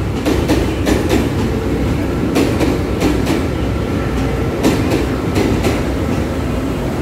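Two passenger trains, an electric commuter multiple unit and a diesel railcar set, rolling into the station. A steady low rumble runs underneath, and the wheels clack over the rail joints in quick pairs every second or two.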